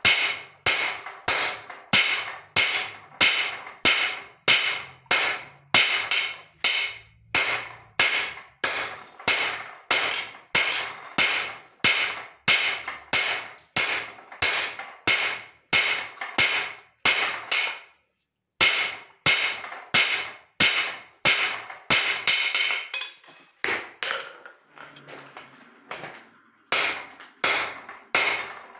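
Hand hammer blows on leaf-spring steel over an anvil, a steady rhythm of about two strikes a second, each with a short metallic ring. The blows break off briefly about two-thirds of the way through, come lighter and more scattered for a few seconds, then resume at full strength near the end.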